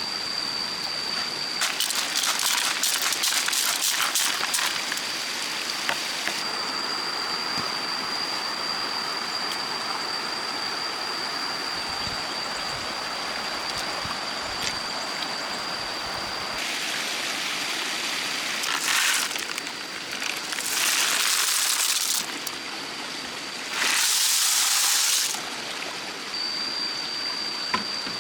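Stream water running, with bursts of splashing: a long, clattering one near the start and three shorter ones in the second half. A steady high-pitched tone runs under the water most of the time.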